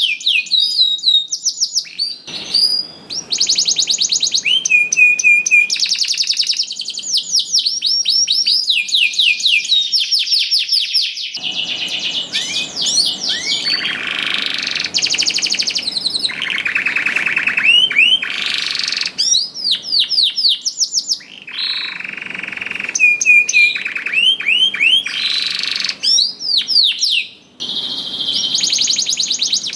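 Domestic canary in full, continuous song: long trills and rolls of rapidly repeated high notes, changing from one tour to the next, with only brief breaks.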